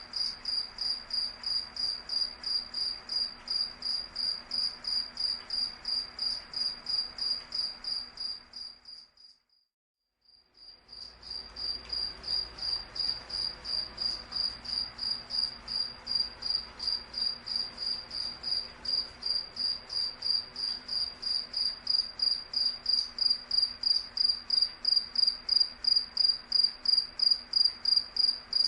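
A cricket chirping in a steady, even rhythm of high-pitched chirps, about two to three a second. The chirping fades out to silence about nine seconds in, comes back about two seconds later and grows a little louder toward the end.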